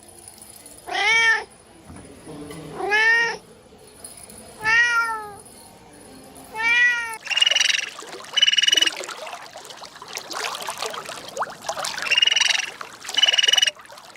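A cat meowing four times at a steady pace, each call rising and falling in pitch. About halfway through, a different, higher and buzzier call follows, heard in two pairs.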